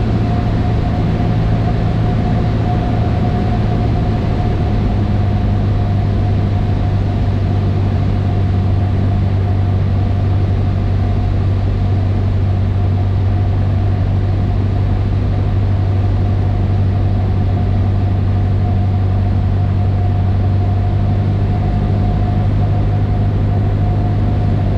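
Cessna 152's four-cylinder Lycoming O-235 piston engine and propeller droning steadily in flight, heard inside the cockpit, with a thin steady whine above the drone.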